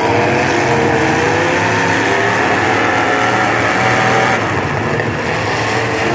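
Demolition derby cars' engines running and revving hard, several engine notes rising and falling over one another above a steady din.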